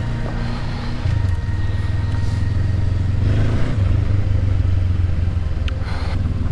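Honda CB500X's parallel-twin engine running at low, steady revs as the motorcycle rides along, its pitch stepping slightly about a second in and again near four seconds.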